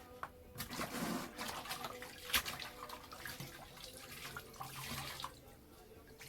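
Water running and splashing, with one sharp knock about two and a half seconds in.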